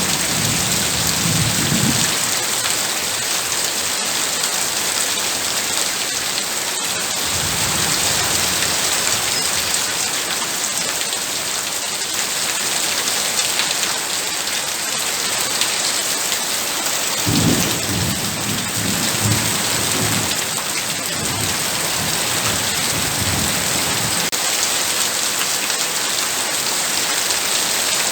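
Heavy rain pouring steadily. Low thunder rumbles through it, once at the start and again for several seconds about two-thirds of the way in.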